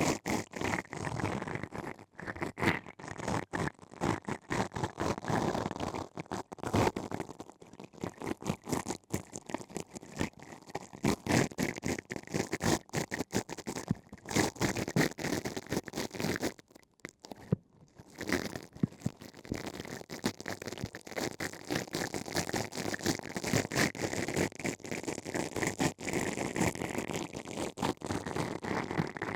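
Ear-cleaning tools scraping and scratching inside an ear canal, heard close up: a dense, continuous run of fast crackling rubs, with a short pause about 17 seconds in.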